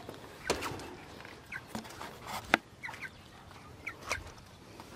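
Chickens giving a few short, faint clucks and calls, with a few sharp knocks in between.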